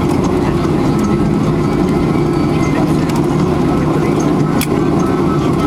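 Boeing 737-400's CFM56 jet engines running steadily at low power, an even rumble, with a short click about four and a half seconds in.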